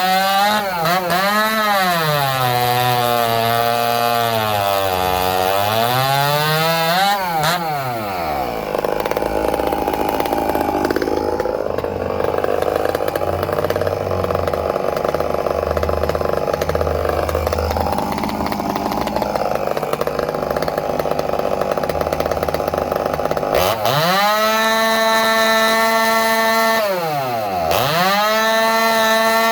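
Ported and expansion-piped 45cc two-stroke chainsaw, a Chinese Red Max clone. Its revs rise and fall several times, then the pitch drops and turns rough for about fifteen seconds while it cuts wood. It then comes back up to a high steady pitch at wide open throttle, with one brief dip near the end.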